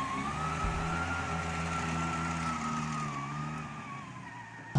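Car engine running at a fairly steady speed with a thin whine over it, easing off and fading near the end.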